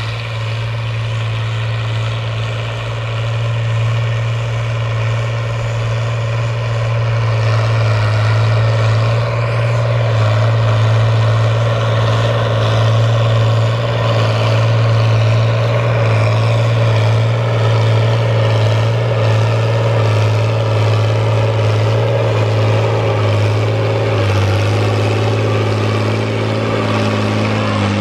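Fiat 1000 DT tractor's diesel engine running steadily while plowing, growing a little louder over the first ten seconds or so as it comes back closer.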